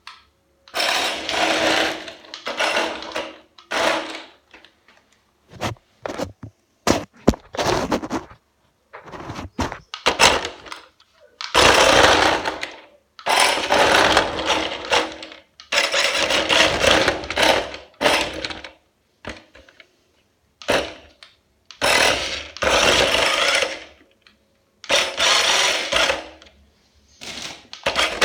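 Rastar BMW radio-controlled car driven without its tyres, its bare wheel rims rattling and grinding over rough ground along with the motor whine. It comes in repeated bursts of one to two seconds with short stops between, as the throttle is pulsed.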